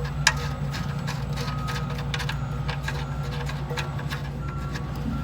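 Irregular sharp clicks and taps of hands working with tools and parts under the car, busiest at first and thinning out, over a steady low hum.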